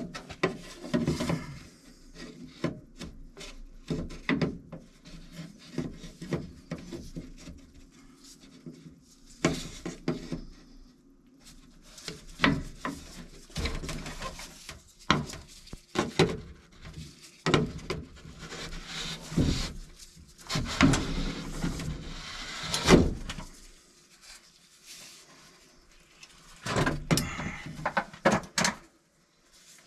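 A plastic or canvas drop sheet being spread out and tools set down on it: rustling and scraping with many irregular knocks and thuds, pausing briefly now and then.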